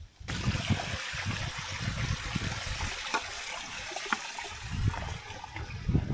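Running water trickling steadily, starting suddenly just after the start, with irregular low rumbles underneath.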